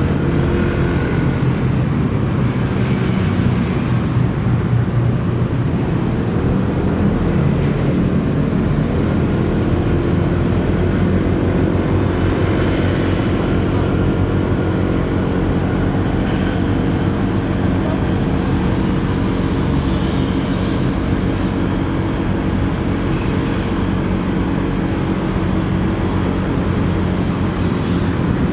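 Motorcycle engine running at a steady speed while riding, with road and traffic noise around it.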